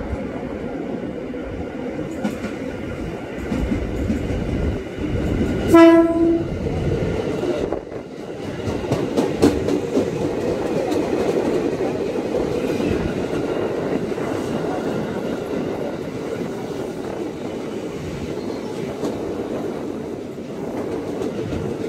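KRL Commuter Line electric multiple unit approaching and running past close by, with a continuous rumble of wheels on the rails. One short horn blast sounds about six seconds in.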